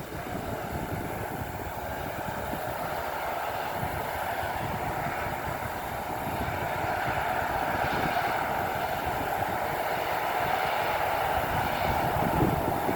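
Bulldozer working, its diesel engine running steadily and growing slowly louder.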